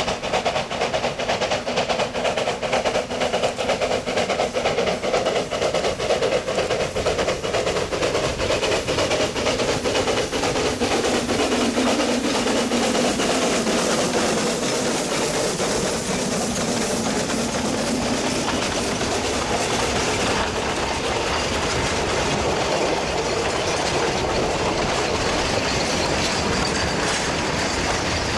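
Narrow-gauge coal train rolling past, its wagon wheels clacking rapidly over the rail joints; about halfway through the clacking blurs into a steadier rolling rumble.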